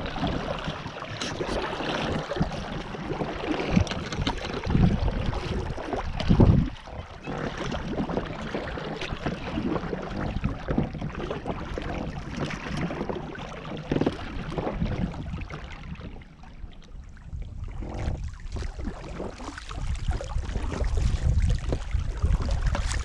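Inflatable boat being rowed on a river: irregular splashing and knocking of the oars, with wind rumbling on the microphone near the end.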